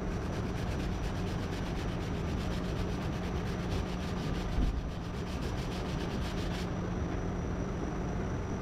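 Body filler on a car's lower quarter panel being sanded by hand with rapid back-and-forth strokes, which stop about two-thirds of the way through, over a steady low hum.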